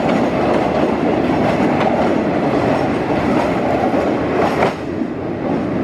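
Passenger coaches of a diesel-hauled State Railway of Thailand local train rolling past: a steady rumble of wheels on rail with a few clicks at the rail joints. It fades somewhat near the end as the last coach goes into a tunnel.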